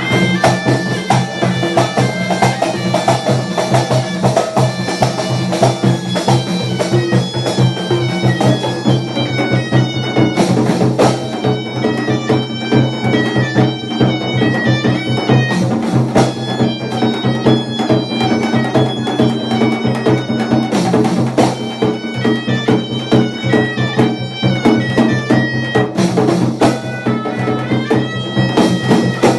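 Moroccan Aissawa music: ghaita shawms play a nasal, ornamented melody over a low steady drone, driven by a steady beat of drums and hand percussion.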